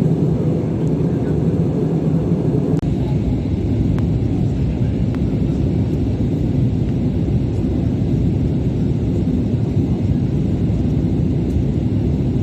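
Airbus A320 airliner cabin noise: a loud, steady low rumble from the aircraft, with a brief dropout about three seconds in.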